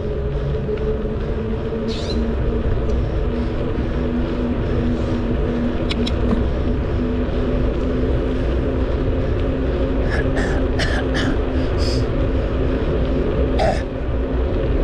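Wind rumbling on the microphone while riding a bicycle, with a steady hum underneath. A few short clicks and puffs come through, most of them in a cluster about ten to twelve seconds in.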